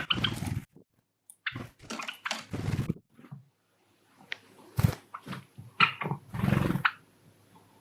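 Pet Java sparrows making a string of irregular short, noisy sounds with brief chirps, in bursts with short pauses between; the longest comes near the end.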